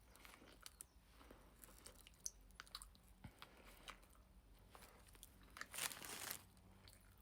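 Faint chewing and small mouth clicks from eating a toasted sub sandwich, with a louder brief crunch about six seconds in.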